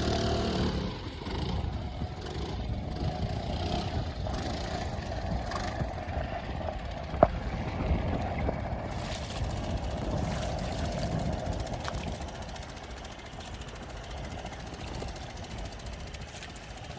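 Small outboard motor on a dinghy running steadily at low speed, with a single sharp knock about seven seconds in.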